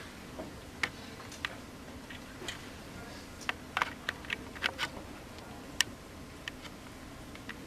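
A run of irregular light clicks and taps, about a dozen short sharp ones spread over several seconds, over faint steady room hiss.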